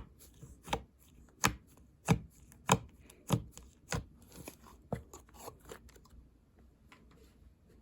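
Slime with lots of water mixed in being squished, making sharp wet pops about every half second or so, growing fainter after about five seconds.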